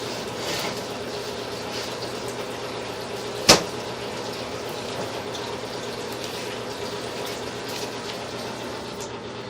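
Water running steadily from a bathroom sink and flowing down the drain line, with one sharp click about three and a half seconds in.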